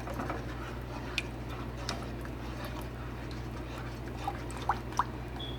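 Thickened chili sauce being stirred in a saucepan, with a few light clicks of the spoon against the pan over a steady low hum.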